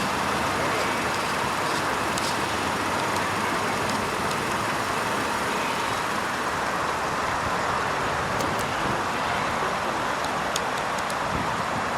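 A 2011 Kia Carens in motion: steady road and tyre noise with the engine running underneath, even in level throughout.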